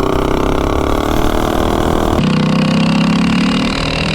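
Predator 212 single-cylinder engine on a Coleman CT200U-EX mini bike, fitted with a Shred Head high-compression cylinder head, running at full throttle in a 0–30 mph acceleration run, its pitch climbing slowly. The tone changes abruptly about two seconds in.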